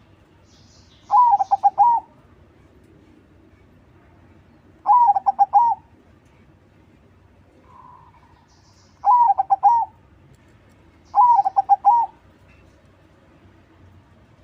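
Perkutut crossing (crossbred zebra dove) singing its rapid stuttering cooing song in four phrases, each just under a second long, with a faint softer coo near the middle. Thin high chirps come with the phrases.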